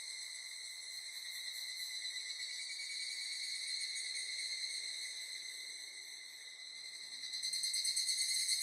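Steady, high-pitched trilling of insects, one continuous pitched drone that swells louder and takes on a fast pulse about a second before the end.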